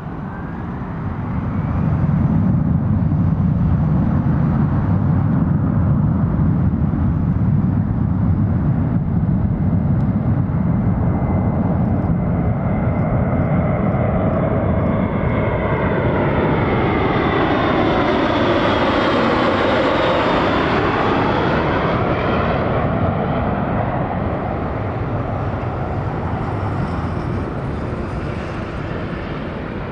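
Airbus A400M Atlas's four turboprop engines as it comes in to land: loud and steady, with a sweeping tone that dips and rises as it passes closest about two-thirds of the way through, then easing slightly.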